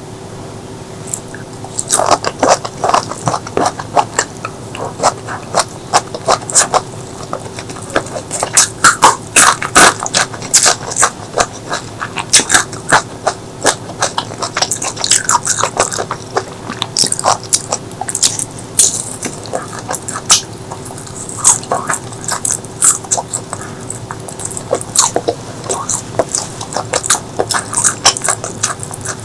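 Close-miked chewing and biting of food: a dense run of sharp, wet mouth clicks and crunches that starts about two seconds in and keeps going.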